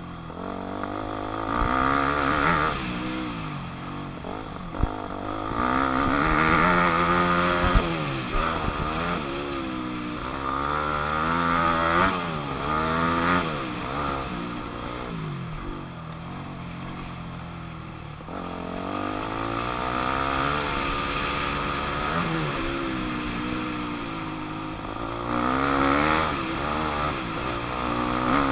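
2006 Yamaha YZ250F's four-stroke single-cylinder engine revving up and dropping back again and again as the dirt bike is ridden round a motocross track. A couple of short sharp knocks come through about five and eight seconds in.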